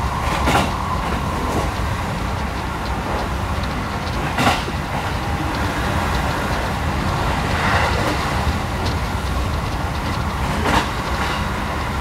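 Electric commuter train running at speed, heard from inside the carriage: a steady low rumble of wheels on rails, with three sharp clicks spread across the stretch.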